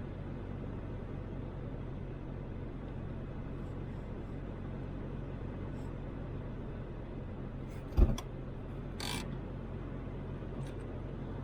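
Toyota Land Cruiser 80 driving, its engine and road noise making a steady low hum. A single sharp thump comes about eight seconds in.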